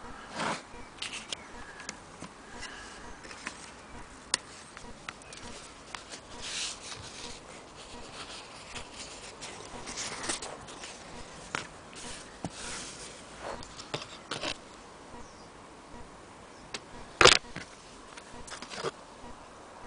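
Irregular clicks, taps and short scrapes of objects being handled, with one sharper, louder knock about 17 seconds in.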